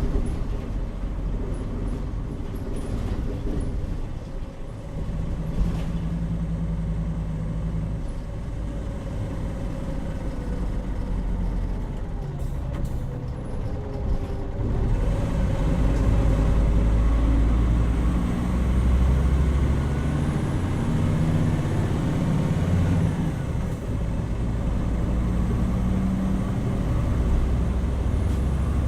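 Hino Rainbow HR (PB-HR7JHAE) route bus under way: its diesel engine runs steadily, its pitch rising and dropping several times as the bus accelerates and changes gear.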